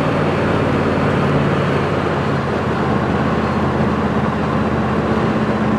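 Camaro Z28's V8 engine running steadily at highway speed, heard from inside the cabin with constant road and wind noise.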